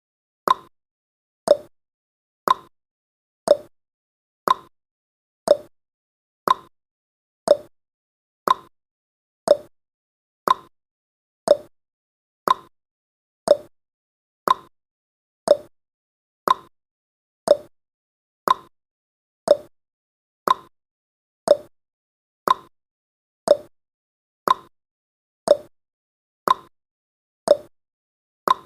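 Countdown timer's ticking sound effect: a sharp clock-like tick about once a second, each one dying away quickly, in a steady even rhythm.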